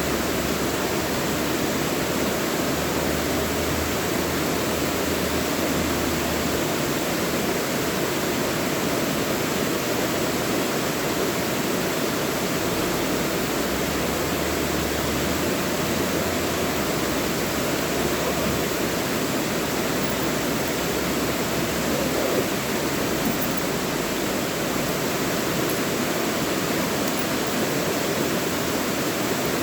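Mountain valley stream rushing over rocks: a steady, unbroken rush of flowing water.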